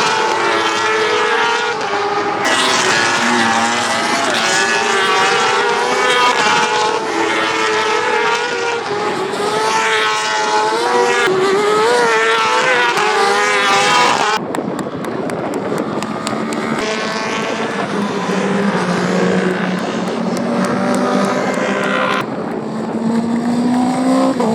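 Racing motorcycle engines at a circuit: several engines at once, their pitches rising and falling as the bikes rev and change gear. About 14 seconds in the sound changes to a thinner one, with a single lower engine note that climbs near the end.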